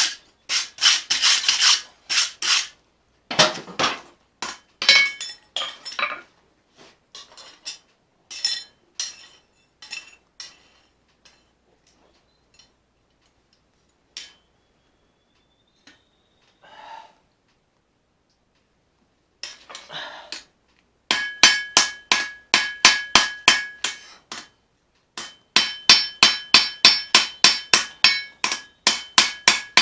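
A hammer striking a leaf-spring steel knife blade on an anvil during forging. Irregular blows come first, then after a pause two runs of fast, even strikes, about three to four a second, with the anvil ringing.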